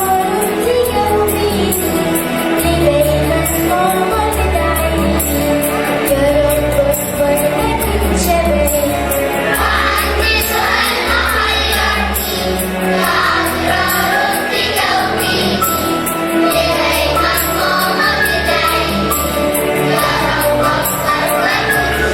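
Choir singing an Arabic Christian hymn in unison, with instrumental accompaniment: a steady bass line and a regular light percussion beat.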